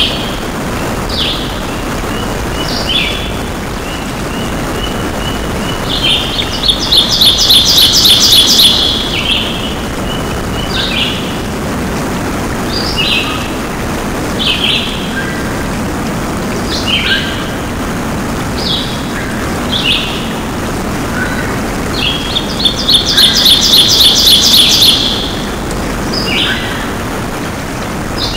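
Birds chirping and calling, with a loud trilled song phrase that comes twice, about sixteen seconds apart, over a steady background noise.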